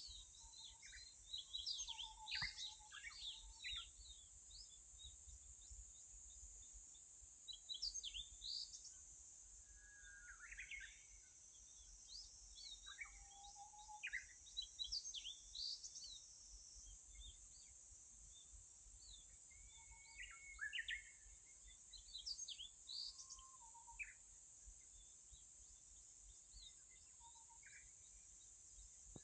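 Birds chirping and calling faintly in short, scattered bursts every few seconds, over a steady high hiss.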